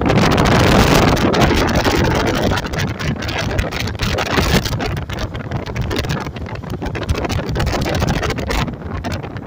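Loud wind buffeting the microphone over the road noise of a moving car, gusting unevenly.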